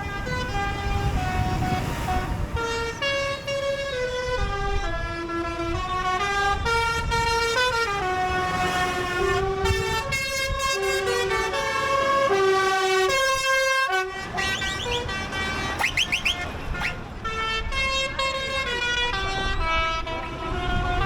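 A tune played in long held notes that step up and down in pitch, sounding from the passing procession vehicles, over the low rumble of tractor and truck engines. A few quick rising whistle-like glides come in about two thirds of the way through.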